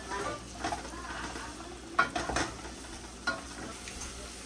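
Onions sizzling as they sauté in butter in a saucepan while being stirred, with two sharp knocks of the utensil against the pan.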